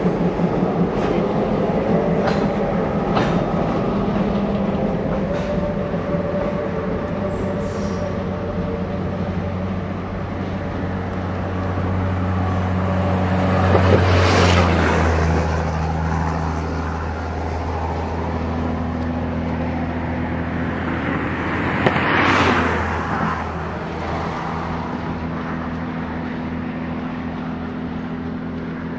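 Train running by on the rails, with a steady engine hum underneath. A few clicks early on, and the sound swells loudest twice, about halfway through and again about three-quarters of the way through.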